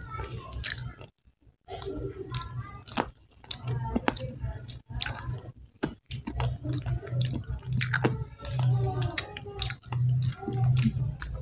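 Close-miked chewing of crispy fried chicken, with many small sharp crunches of the breaded coating. The sound cuts out briefly twice.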